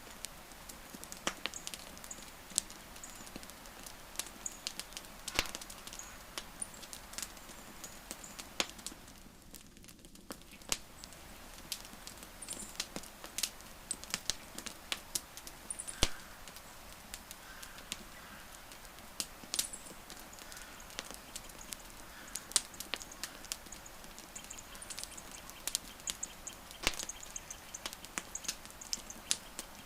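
Wood campfire crackling and popping, with many sharp snaps of varying loudness over a steady hiss. Faint short high chirps come and go in the background.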